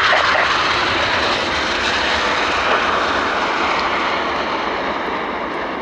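Eurofighter Typhoon jet noise: a steady rushing sound that slowly fades as the aircraft moves away.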